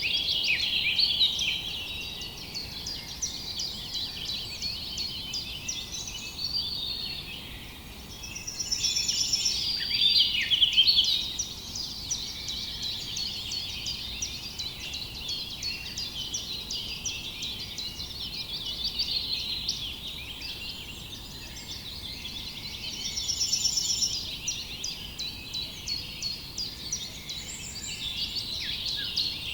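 Many small songbirds chirping and singing at once, a dense, continuous chorus of short high chirps and trills, with a buzzy trill standing out about nine seconds in and again near the twenty-three-second mark.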